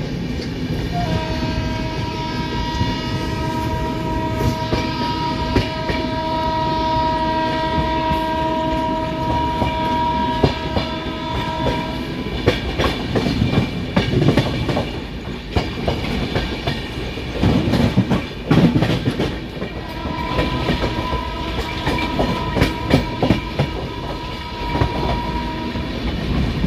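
Train wheels running on the rails, clattering over joints and points, heard from on board a moving train. A train horn sounds one long steady two-tone blast from about a second in to about twelve seconds, and blows again for about five seconds later on.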